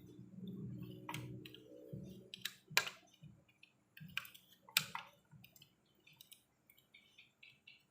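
Scattered sharp clicks and knocks of small tools and electronic parts being handled on a workbench, with a run of quick light ticks near the end.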